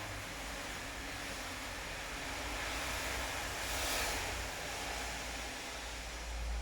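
Steady rain falling, a dense even hiss with a low rumble underneath; the hiss swells and fades once about four seconds in.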